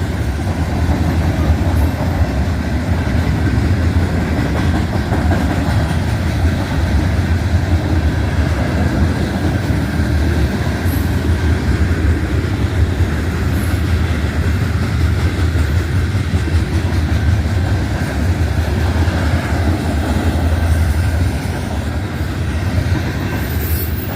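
Freight train of oil tank cars and boxcars rolling steadily past, a continuous deep rolling noise from the wheels on the rails.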